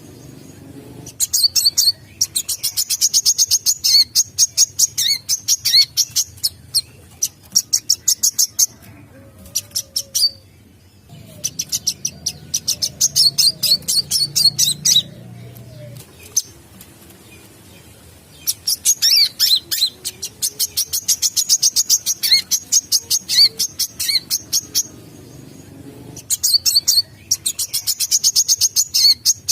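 Brown-throated sunbird (kolibri kelapa) singing: rapid strings of sharp, high chips and trills in phrases of several seconds, broken by short pauses.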